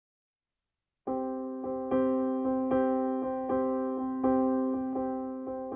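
Piano music starting about a second in: held chords with notes struck again two or three times a second.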